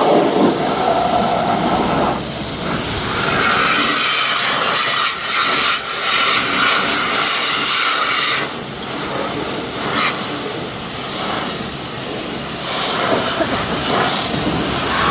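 Pressure washer spraying water onto a car body: a loud, steady hiss of the jet that changes in tone as the spray moves across the panels.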